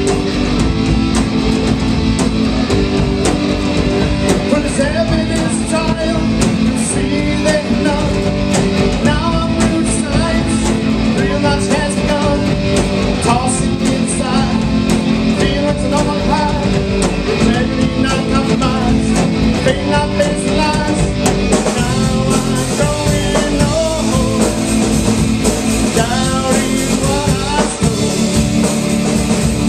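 Rock band playing live: guitars and drum kit with a singer's voice over them.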